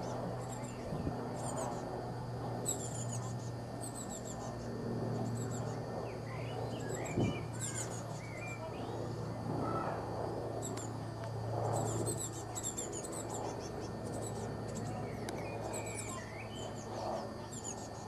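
Small songbirds chirping in the trees: repeated series of short, high, thin chirps, with some lower whistled, sliding notes in the middle. A steady low hum runs underneath.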